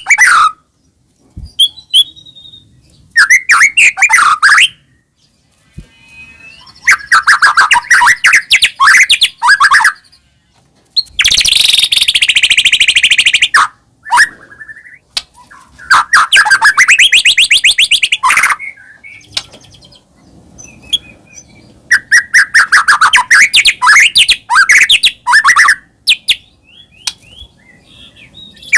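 White-rumped shama (murai batu) singing loud, varied song phrases of a few seconds each, with short pauses between them. About eleven seconds in comes a harsher, rasping stretch.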